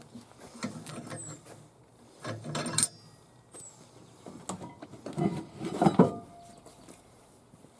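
Metal tools and parts clinking and clattering in irregular bursts of handling, loudest about six seconds in.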